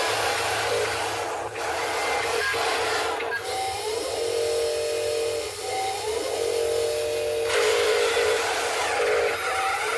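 Steady machine noise: a low hum with a whining tone that rises briefly a few times, and a loud hiss for a few seconds in the middle.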